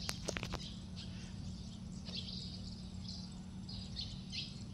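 Birds chirping in short scattered calls over a steady low outdoor rumble, with a quick run of sharp clicks just after the start.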